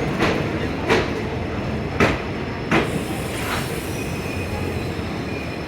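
Passenger train coach rolling along the track, steady rumble with five sharp clacks of the wheels over rail joints in the first few seconds and a faint thin squeal after the middle.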